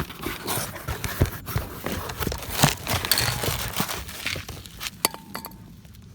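Cloth rubbing over an alloy wheel as it is dried and wiped clean, with irregular rustles and knocks from handling it and a short squeak about five seconds in.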